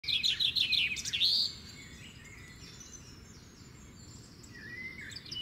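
A songbird singing a fast run of about eight short high notes, ending in a swooping note, then falling quiet apart from a softer note near the end, over a faint steady outdoor background noise.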